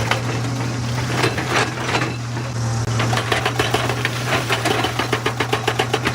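Excavator's diesel engine running steadily under load, with scattered clanking knocks of rock and steel. Over the last couple of seconds comes a fast, even run of knocks, about eight a second.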